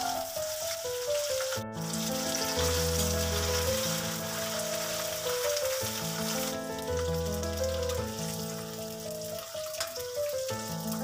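Onions and ginger-garlic paste sizzling in hot oil in a wok as they are stirred, under background music of held notes with a recurring bass note.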